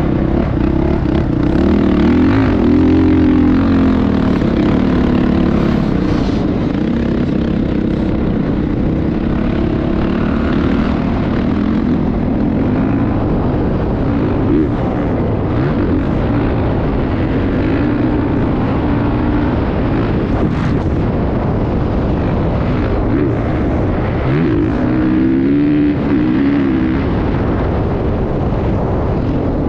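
Motocross bike engine running continuously, its pitch rising and falling as it revs up and eases off, with a few clear revs near the start and near the end.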